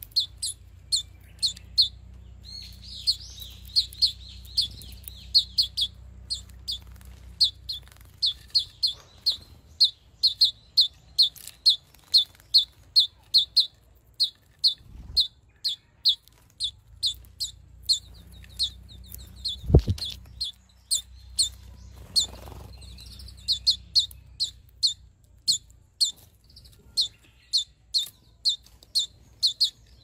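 Small garden birds chirping, short sharp chirps repeating at about two a second, with a single sharp knock about two-thirds of the way through.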